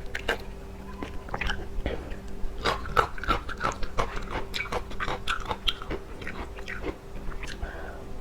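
A person biting and chewing seafood, with many quick, irregular clicks and crunches throughout, over a faint steady hum.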